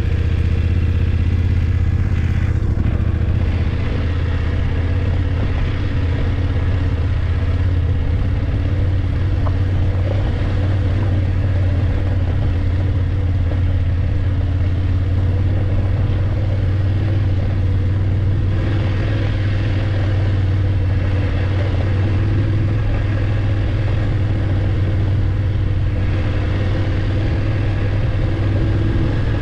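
BMW F850GS motorcycle's parallel-twin engine running steadily under way, with a low, even engine note and no big revs up or down.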